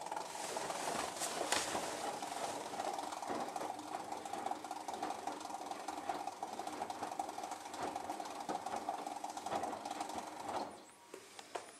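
Hotpoint WMD940 washing machine making an odd running noise: a steady buzzing rattle over a strong mid-pitched hum, which cuts off suddenly about three quarters of a second before the end, followed by a couple of clicks. It is a fault noise the owner cannot place.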